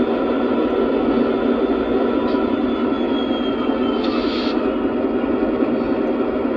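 Lionel Legacy SD70MAC model locomotive's onboard sound system playing its diesel prime mover running steadily, thin with no deep bass, with a short hiss about four seconds in.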